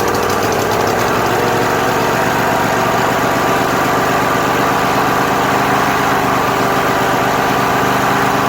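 Craftsman DLT3000 lawn tractor engine running steadily at about half throttle, even though its fuel line has been pulled off: a sign of the carburetor flooding.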